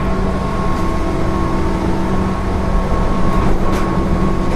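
JR 205 series 0-bandai electric train heard from inside the car while running: a steady rumble of wheels on rail with a constant hum, the pitch neither rising nor falling, and a few faint clicks about three and a half seconds in.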